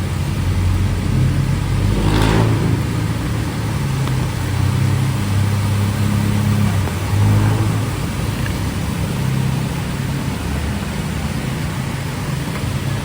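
Motor vehicle engines running in street traffic, a steady low hum, with a brief rushing sound of something passing close about two seconds in.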